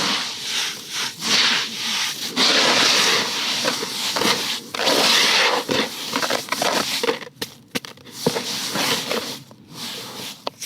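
Close-up scratchy rubbing and crinkling noises in irregular bursts, thinning to a few separate clicks near the end.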